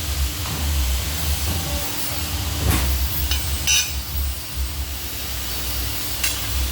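A CNC pipe-bending machine at work: a steady hiss over a low rumble, with a few sharp knocks, one of them ringing briefly like metal about halfway through.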